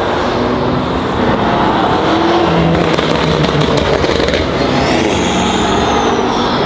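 Loud car engines revving and accelerating, their pitch rising and falling, with a high whine that rises and falls in the second half.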